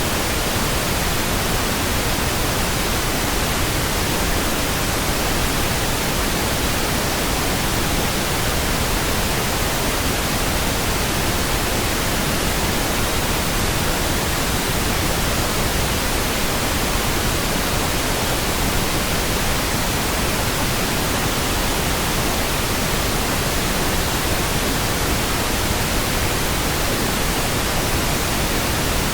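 Synthetic pink noise: a steady, even hiss spread across all pitches, without any change or event.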